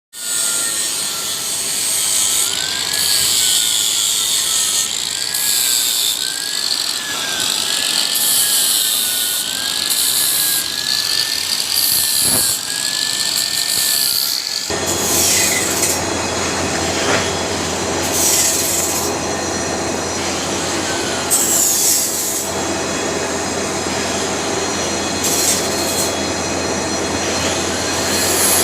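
Power tool grinding or cutting metal, with a high screech whose pitch wavers up and down as the load changes. About halfway through the sound changes suddenly to a fuller, harsher grinding noise.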